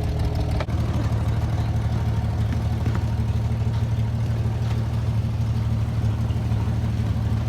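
Truck engine idling steadily, a low even hum, with a single short knock under a second in.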